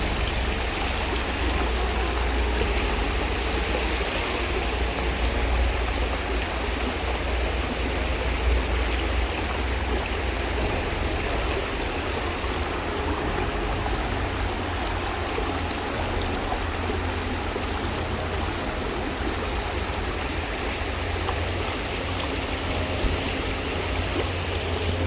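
Steady rush of flowing water, with a low rumble of wind on the microphone underneath.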